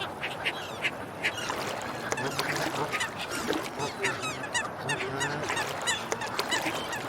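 Waterfowl honking and quacking on and off, with small birds chirping rapidly and continuously.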